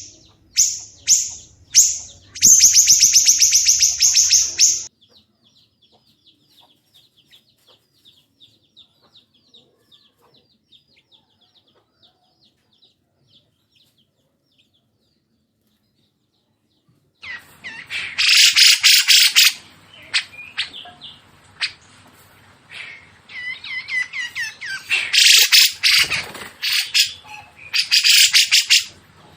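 Songbirds calling: a run of sharp, high repeated notes and a fast rattling trill, then a faint quick chatter that fades to near silence. About 17 seconds in, loud harsh bursts of song start again and repeat.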